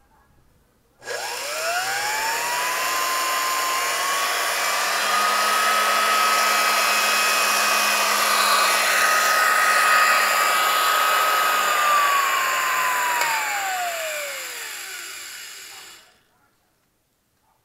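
1960s–70s Walita blender motor switched on about a second in: a high whine that climbs in pitch as it spins up, holds steady, then slows with falling pitch and stops near the end. The motor runs on its original bearings, which the seller says have no play.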